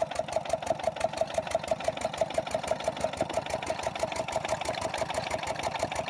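8 hp single-cylinder Lister-type diesel engine of a water pumping set running steadily, with an even beat of about ten pulses a second.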